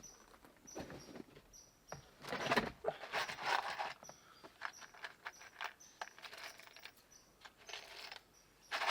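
Irregular light clicks and knocks with a few short stretches of rustling.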